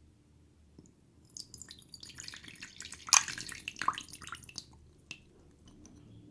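Liquid from a toy magic potion set dripping and splashing in a dense crackling run of small clicks, with a sharp tap just after three seconds and a last click about five seconds in.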